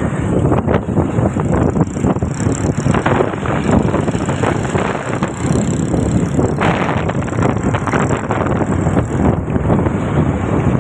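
Steady rush of wind buffeting the microphone on a moving motorbike, with road and engine noise underneath.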